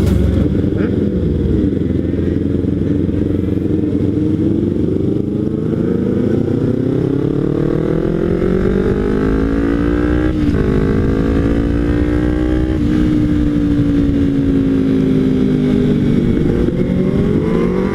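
2013 Kawasaki Ninja 300's parallel-twin engine through a Hotbodies MGP Growler exhaust, accelerating through the gears: the revs climb, drop at upshifts about ten and thirteen seconds in, ease off, then rise again near the end.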